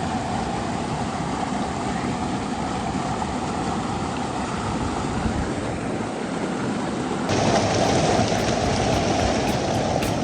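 Steady rush of falling water from the waterfall and its fast current in the plunge pool, with no distinct events. It turns louder and fuller about seven seconds in.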